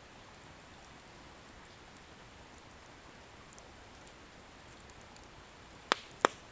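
Firewood burning in a bonfire: a soft, low hiss with faint scattered crackles, then two sharp pops of the wood bursting close together near the end.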